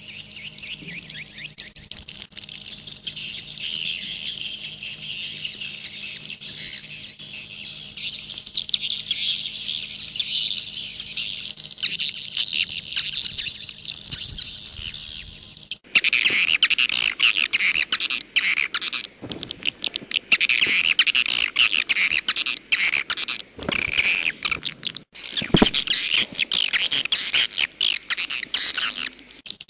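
Swiftlets twittering in a dense, continuous chatter of high chirps. About halfway through, the recording changes abruptly to a choppier stretch of calls and a faint low hum drops out.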